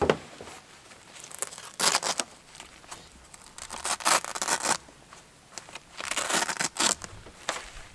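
Rough scraping and tearing noises in three main bursts, each up to about a second long, with a short sharp sound at the very start.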